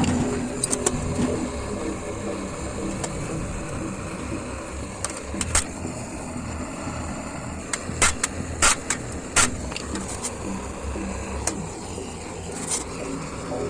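Hammer striking a warped metal fire-pit grate to straighten it: about ten sharp, irregularly spaced blows, several of them close together around the middle, over a steady background rush.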